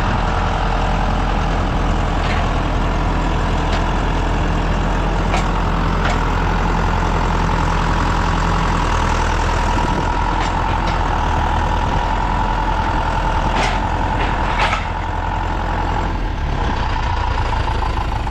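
Farm tractor engine running steadily while driving, with several sharp clicks or rattles over it.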